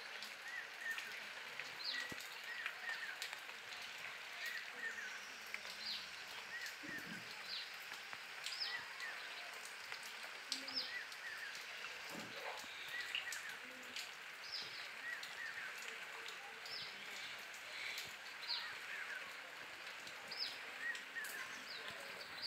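Birds calling again and again: short, high, downward-sweeping chirps about once a second, mixed with lower chirping notes, over a steady outdoor hiss.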